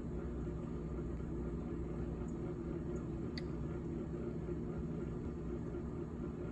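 GE GTH18XCTZRBB refrigerator running with a steady, even hum, with one faint tick about three and a half seconds in.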